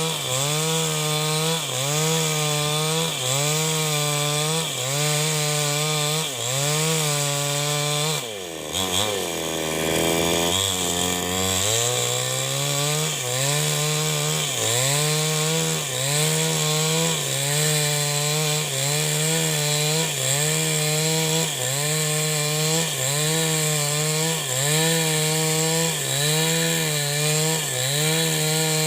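New West 788 chainsaw cutting wood under load, its engine note dipping and recovering in a steady rhythm about once a second. About eight seconds in the revs fall away sharply, then build back up over a few seconds and the rhythmic cutting resumes.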